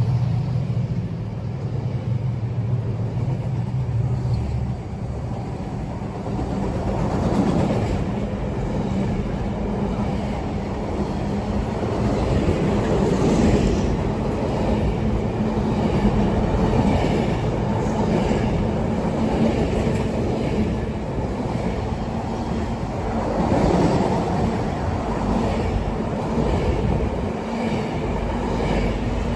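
Train running past on the track: a steady rumble of wheels on rails with some clatter and a steady hum, and a deeper engine-like hum that drops away about five seconds in.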